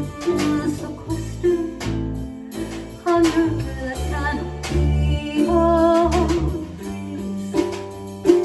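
Acoustic guitar accompaniment with a bass line, played between sung lines of a slow folk song, with a few held vocal notes.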